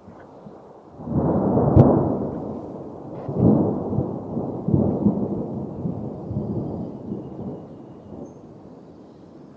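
A thunder roll in a storm: a low rumble builds about a second in with one sharp crack, then swells again a couple of times and fades away.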